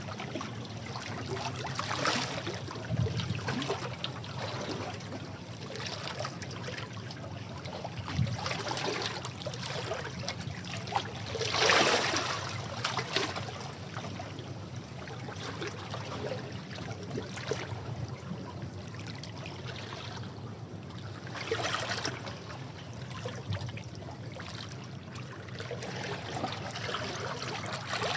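Sea waves breaking and washing over rocks: a continuous hissing wash that swells in surges every few seconds, the biggest about twelve seconds in.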